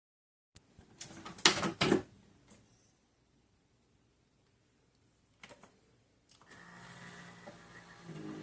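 Keurig single-serve coffee maker being handled: a cluster of sharp plastic clicks and knocks, then another click, as the lid and pod holder are worked. About six seconds in the machine starts a steady hum that grows stronger near the end.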